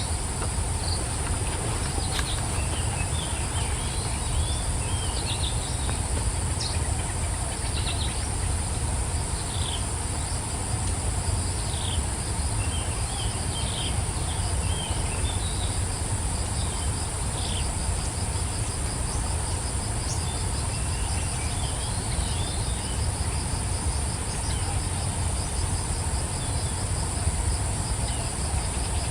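Outdoor ambience of a steady high-pitched insect drone, with scattered short bird chirps over it, all above a steady low rumble. About halfway through, a fast pulsing insect trill joins in.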